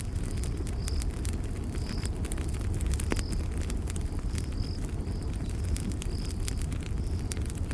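Campfire burning with a steady low rumble and frequent sharp crackles and pops. Short high insect chirps repeat about every half second over it.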